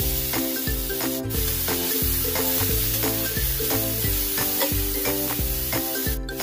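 Kimchi and garlic sizzling in a hot stainless steel frying pan as they are stirred with a spatula. Background music with a steady beat plays over it.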